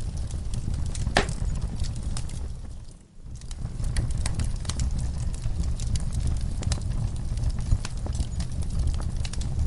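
Crackling fire with frequent sharp pops over a low, steady rumble, mixed with horses shifting in a stall, hooves knocking on the floor. The sound briefly drops away about three seconds in, then comes back.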